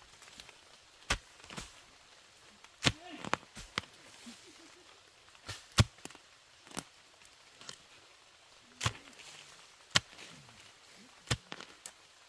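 A series of sharp knocks at irregular intervals, about one every second, like chopping or striking with a tool.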